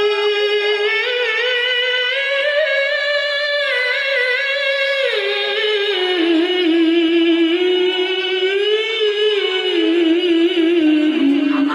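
Male Quran reciter (qari) chanting solo in a high voice, holding long, ornamented notes that waver up and down; the melody sits high at first and drops lower about halfway through.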